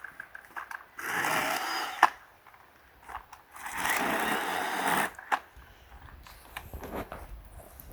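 Battery-powered 20V cordless mini chainsaw running in two short bursts, about a second and then a second and a half, as the trigger is pulled to cut firewood, each burst ending with a sharp click. Scattered knocks of wood follow.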